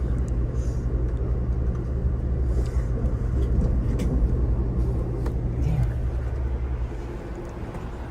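A moving train heard from on board: a steady low rumble and hum with a few sharp clicks. It eases a little near the end.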